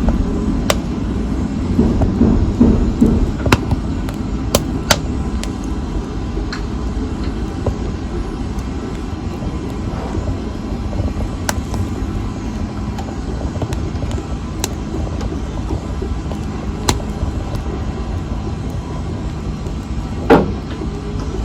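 Wood fire burning in a fireplace: a steady low rumble of flames with scattered sharp crackles and pops. Near the end, one louder sound falls quickly in pitch.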